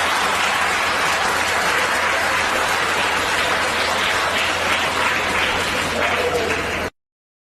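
Audience applauding steadily after a joke's punchline, cut off abruptly near the end.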